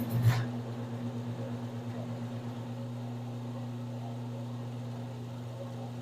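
Craftsman 109 mini lathe running steadily off its belt-driven electric motor, a smooth even hum, with one short knock just at the start.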